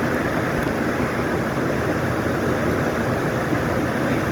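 Steady rush of stream water, a constant even roar.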